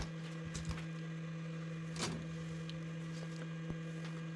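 A steady low electrical hum with a few sharp clicks on top, the clearest about two seconds in.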